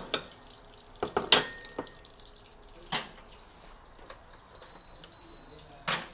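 Kitchen dishes and utensils clinking and knocking: a quick cluster of sharp clinks about a second in, one near the middle and a loud one near the end, some with a brief metallic ring.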